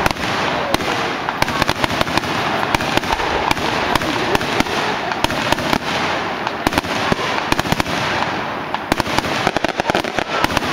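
Aerial fireworks bursting in a rapid, unbroken string of bangs and crackles, many reports a second.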